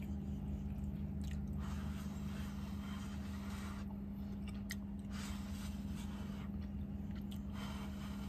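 A man chewing a mouthful of roast beef in gravy, in several spells of soft chewing with a few light clicks between them, over a steady low hum.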